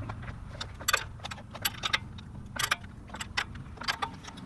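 Scattered light metallic clicks and clinks of a steel open-end wrench against bolts and engine parts, about half a dozen sharp taps over a low hum.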